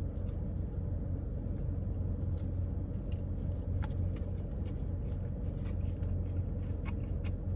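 Chewing a bite of crispy fried chicken, with a few faint crunches, over a steady low hum.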